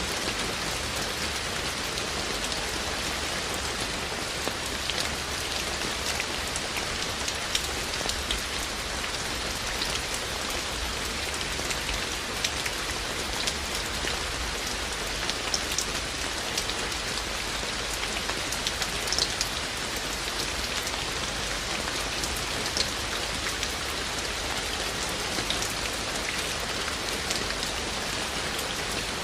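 Steady rain falling, with many individual drops ticking sharply on hard surfaces over a constant hiss.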